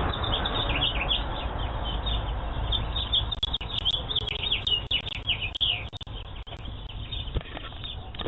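Small birds chirping: many quick, overlapping chirps, thickest in the middle. They are heard through a doorbell camera's narrow-band microphone.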